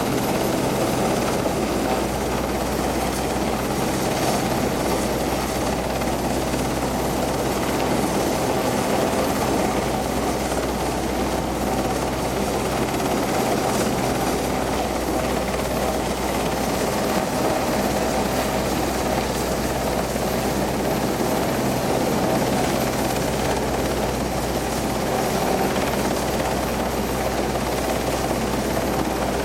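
RAF rescue helicopter's rotors and turbine engines running close by, a loud, steady, unchanging drone with a constant low hum beneath it.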